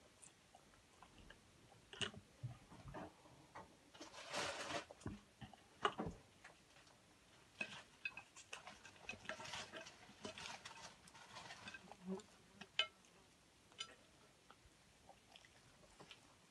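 Close-up chewing and crunching of fried potato samosas and fries, with scattered soft clicks and taps as fingers pick food from the plate.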